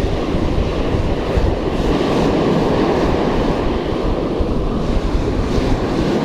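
Gulf surf washing steadily on the beach, with wind rumbling on the microphone.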